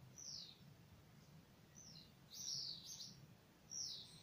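A small bird chirping, faint: several short high notes, each sliding down in pitch, spaced through a few seconds.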